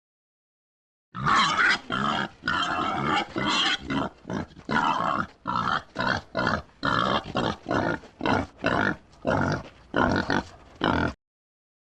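A pig grunting over and over in quick, short calls, about two a second, starting about a second in and stopping shortly before the end.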